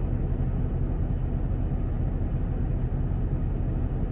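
Steady low drone of an idling truck diesel engine.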